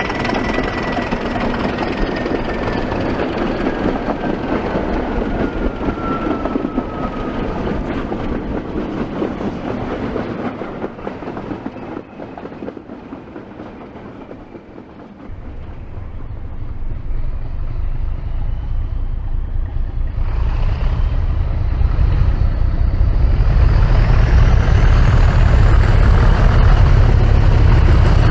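Diesel locomotive engine running, with a whistling tone that sinks slowly in pitch over the first several seconds. It drops quieter about twelve seconds in, then comes back with a deep rumble about fifteen seconds in, and a whine climbs steadily in pitch as the engine powers up, typical of a turbocharger spooling up.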